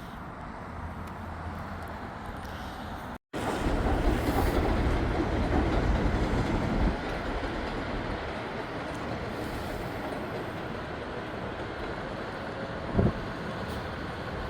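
Long Island Rail Road train running at the station: a steady rumble, loudest from about three to seven seconds in, then settling to a steadier, lower run, with a brief knock near the end.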